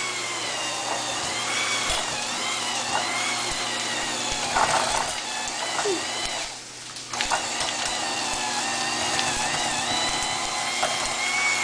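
Electric hand mixer running steadily as it beats a block of cream cheese, its whine wavering in pitch as the load changes. It eases off briefly a little past halfway, then picks up again.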